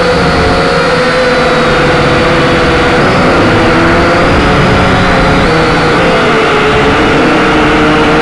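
Quadcopter's electric motors and propellers whining steadily in flight, the pitch wavering slightly as the motors adjust speed, over a rushing noise.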